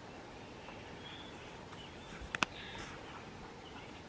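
Quiet outdoor ambience with faint bird chirps, broken by two sharp clicks in quick succession about two and a half seconds in.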